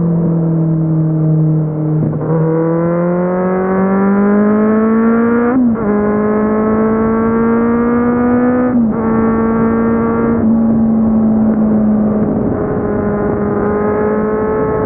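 Kawasaki Z750's inline-four engine under way: its pitch sags a little, then climbs under throttle, breaking twice with quick drops about five and a half and nine seconds in as it is shifted up, and then holds a steady pitch.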